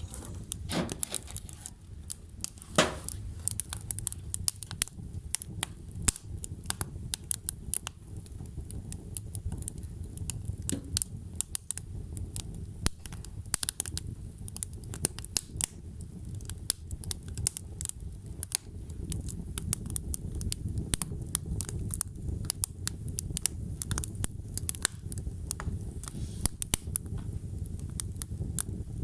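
Wood fire burning, logs crackling and popping irregularly over a steady low rumble of the flames.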